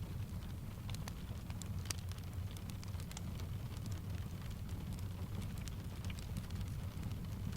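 Blended ambience of steady rain with a wood fire crackling: scattered sharp crackles and ticks over a constant low rumble.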